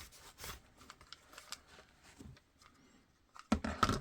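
Faint, scattered clicks and taps of small hardware (retention screws and posts) being handled on a workbench, with louder clattering near the end.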